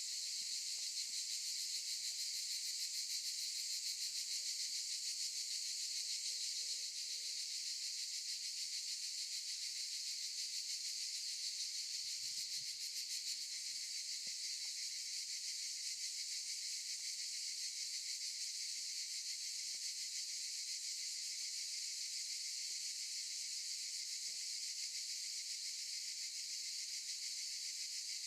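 A chorus of cicadas buzzing steadily and high-pitched, without a break.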